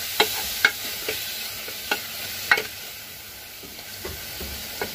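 Ground masala and fenugreek leaves frying in oil in an aluminium pressure cooker, a steady sizzle, while a wooden spatula stirs the mix and knocks sharply against the pot now and then, about six times, irregularly.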